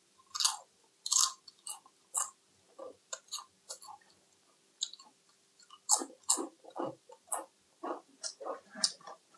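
Close-miked eating: a person chewing and biting food, an irregular string of short mouth clicks and crunches that grows busier in the second half.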